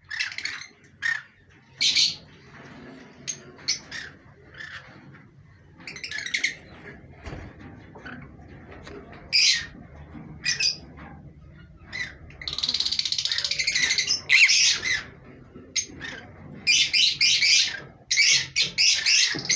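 Pet parrots squawking in short, shrill calls, breaking into two runs of rapid, repeated screeching partway through and near the end.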